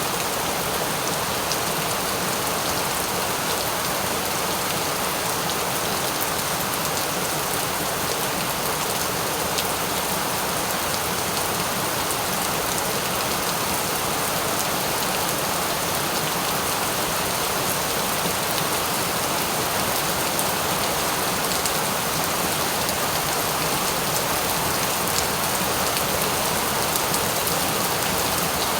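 Steady rain falling on a surface, an even hiss with a scatter of faint drop ticks.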